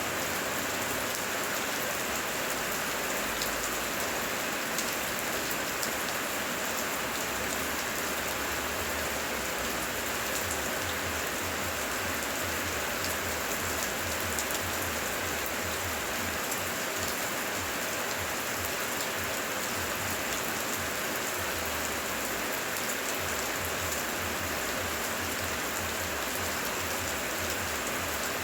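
Heavy rain falling steadily, a dense patter of many drops striking the ground and foliage without letting up.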